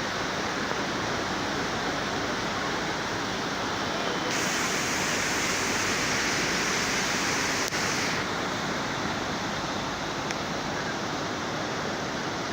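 Swollen floodwater rushing, a steady dense wash of water noise. From about four seconds in to about eight it turns brighter and a little louder, then settles back.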